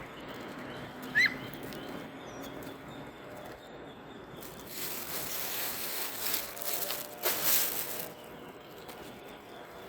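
A single short, sharp rising bird chirp about a second in, over faint outdoor background. From about five seconds a louder rushing, rustling noise swells and fades by eight seconds.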